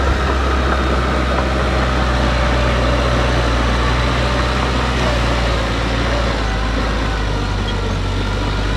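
Heavy diesel engine of earthmoving machinery running steadily with a deep low drone, its note shifting and the level easing slightly a little past halfway.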